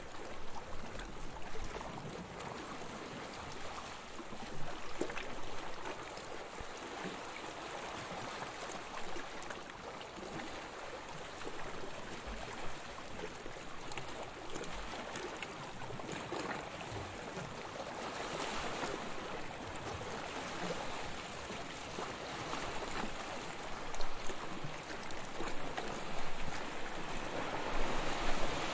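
Sea waves washing continuously onto a beach, a steady rushing wash that swells louder a few times, most near the end.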